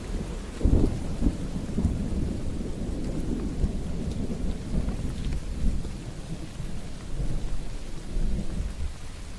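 Steady rain with a long roll of thunder: a sharper clap about a second in, then low rumbling that rolls on and eases toward the end.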